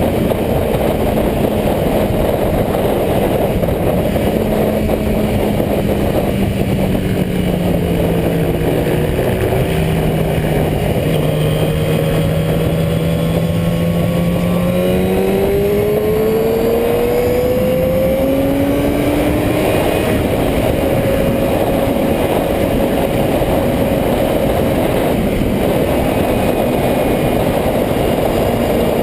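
Motorcycle engines running under a steady rush of wind and road noise, their pitch sinking about a third of the way in and climbing again around the middle.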